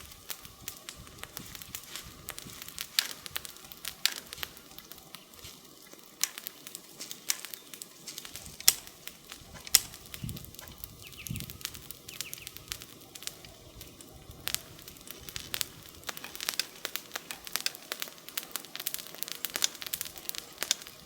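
Wood campfire crackling: a steady stream of irregular small pops and snaps, with two louder sharp snaps about a second apart near the middle.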